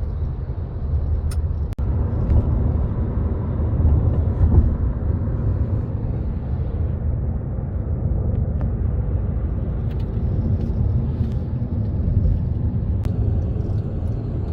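Car cabin noise while driving: a steady low road and engine rumble.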